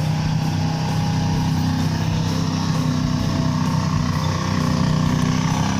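A steady motor running at constant speed with a low hum, cutting off suddenly at the end.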